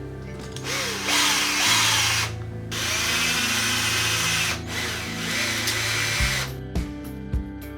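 A small power tool, a drill or rotary tool, runs in three bursts of roughly one and a half to two seconds each. Its pitch wavers as it cuts. Background music plays underneath.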